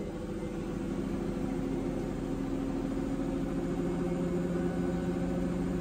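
Washing machine on its spin cycle, the motor and drum giving a steady hum with several pitched tones that slowly grows louder as it spins up. The machine had been failing to spin with a fault code and is spinning the load out again.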